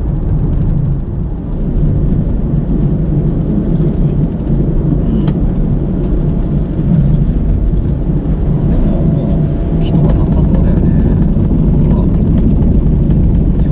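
Car on the move: steady engine and tyre road noise, a low rumble throughout, with one sharp click about five seconds in.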